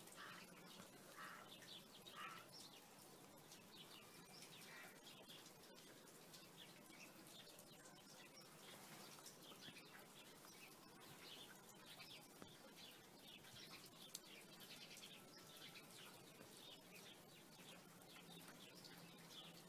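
Faint small birds chirping in short, scattered calls in the background, over a faint steady low hum; otherwise near silence.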